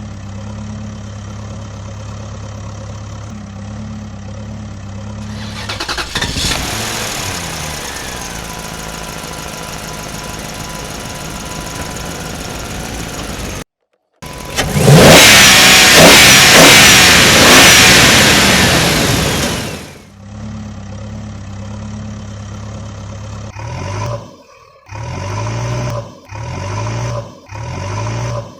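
Heavy vehicle engine idling steadily, then revving up with a rising whine. After a brief cutout comes a very loud, harsh stretch of about six seconds; the idle returns, and near the end there are short revs about once a second.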